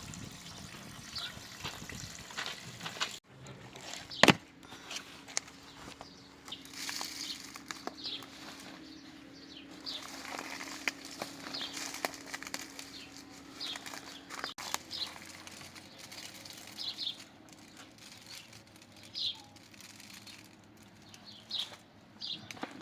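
Birds chirping, short calls repeating every second or two, with scattered light clicks and one sharp knock or clink about four seconds in.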